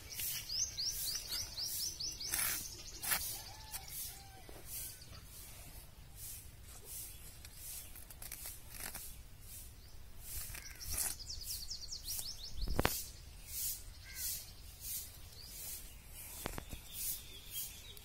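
A bird chirping in quick runs of short, high, falling notes near the start and again about eleven seconds in, over scattered short rustles and snips as a knife cuts through nylon fishing net. One sharp click about thirteen seconds in.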